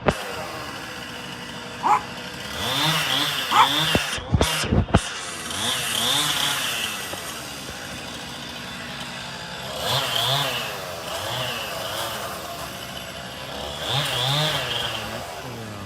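Chainsaw revving up and dropping back to idle in repeated swells while cutting into the oak. A few heavy low thumps come about four seconds in.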